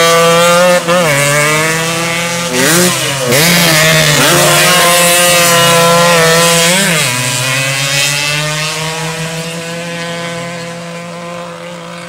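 Racing motorcycle engines held at high revs, with the pitch dipping and climbing again several times as the bikes brake and shift through the hairpin. The sound fades over the last few seconds.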